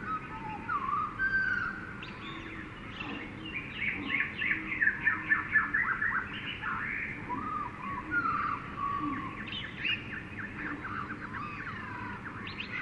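Jungle ambience of several birds calling at once: slurred whistles and chirps, with a rapid run of short chirps between about four and seven seconds in, the loudest part, over a steady background hiss.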